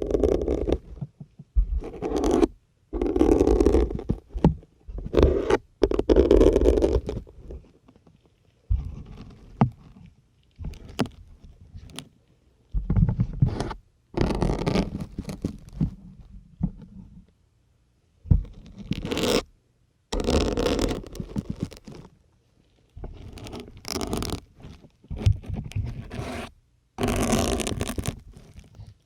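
Syringe needles being pushed into a dense grey sponge close to the microphone, a string of separate pushes each lasting a second or so, with short silences between.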